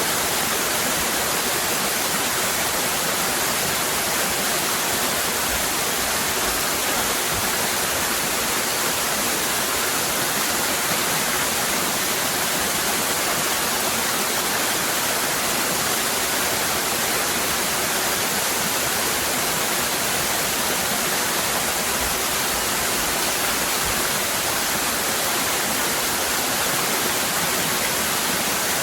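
Waterfall cascading, a steady, unbroken rush of falling water.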